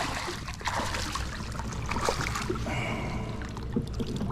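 Water splashing and trickling around a fishing kayak, with scattered light knocks and clicks.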